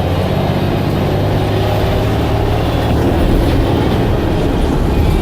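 Blue Bird All American bus running, its engine a steady low drone under heavy road rumble.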